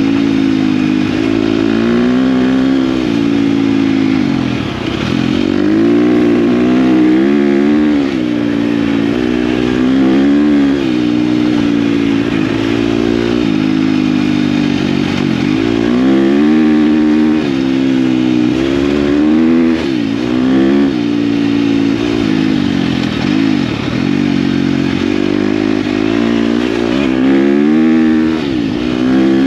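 KTM dirt bike engine running under way, its pitch rising and falling repeatedly with throttle and gear changes.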